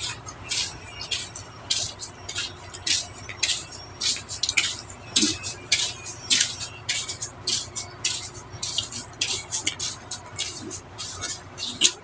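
Close-up eating sounds: wet chewing and lip-smacking, with sharp mouth clicks and smacks coming irregularly, several a second, as stewed fish and rice are eaten by hand.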